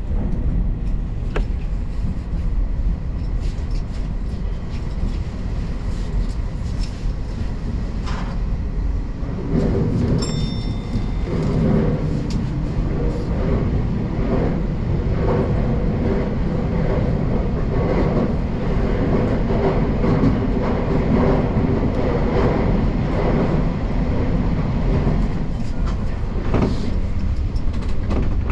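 Keio Inokashira Line electric commuter train running, heard from on board: a steady low rumble of the wheels on the rails with scattered clicks over rail joints and points. About ten seconds in, a humming tone joins the rumble and holds.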